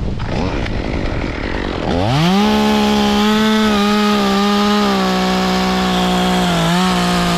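Wind noise on the microphone, then a chainsaw revs up quickly about two seconds in and runs at a high, steady speed while cutting through a limb. Its pitch dips slightly a couple of times under the load of the cut.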